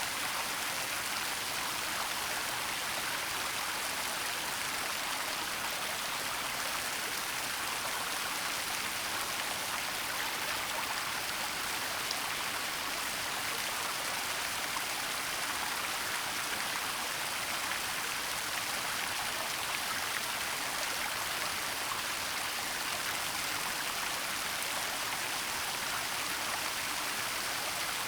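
Waterfall in a forest: a steady, unbroken rush of falling water, mostly a bright hiss.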